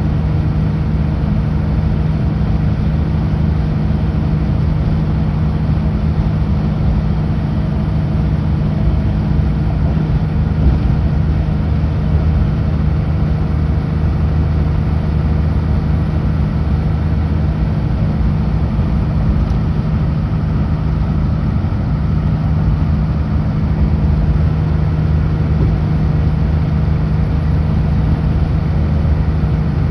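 Kenworth W900L semi truck's diesel engine droning steadily at highway speed, with a constant rush of road and tyre noise.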